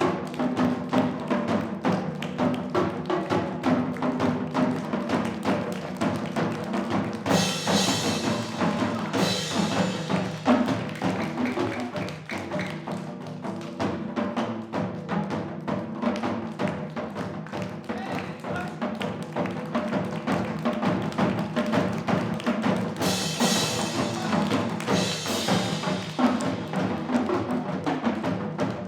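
Live percussion-driven fusion music: fast, dense drumming over sustained pitched tones, with bright crashes about seven seconds in and again about twenty-three seconds in.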